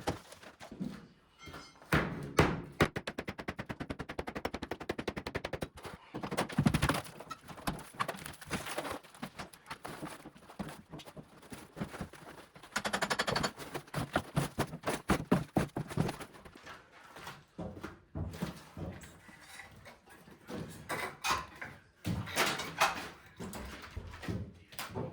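Drywall demolition: a series of sharp knocks and thuds as wallboard is broken out, some coming in quick runs of rapid strikes.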